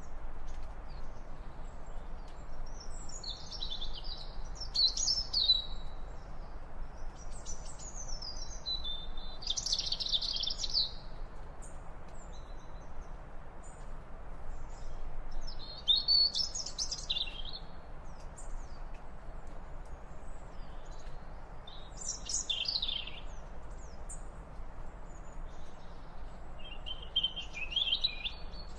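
Birds chirping in short, high twittering phrases every few seconds, over a faint steady background hiss.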